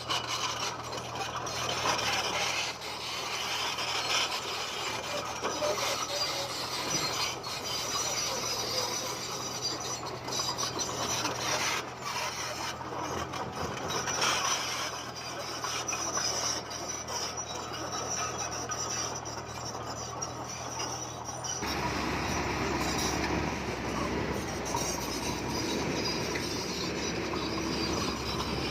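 Komatsu bulldozer at work pushing stone: a steady low engine drone under grinding, scraping rock noise, with scattered knocks. About three-quarters of the way in it changes suddenly to a heavier, lower machine rumble.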